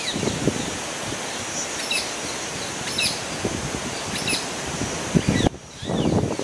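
Wild birds chirping in short, falling calls about once a second over steady outdoor hiss and irregular low rustling. The low rustling drops away briefly about five and a half seconds in.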